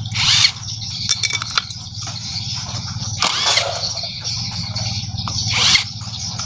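A steady low mechanical throb, with three short, louder noisy sounds over it: one near the start, one in the middle and one near the end.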